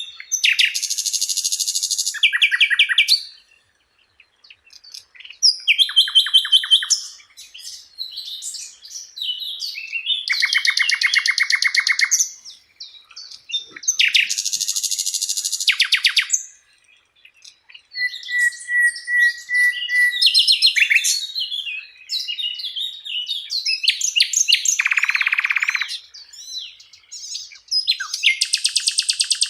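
Sikatan Londo flycatcher singing a fast, varied song: a string of separate phrases of quick chirps, buzzy trills and rattles, one short level whistle, with brief pauses between phrases.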